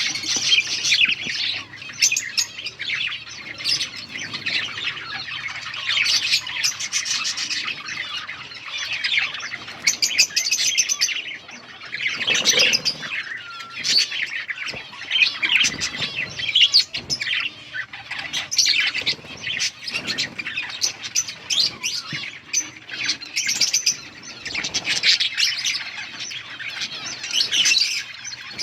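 A flock of budgerigars chirping and chattering continuously, many birds at once, with short clicks and the odd wing flutter mixed in.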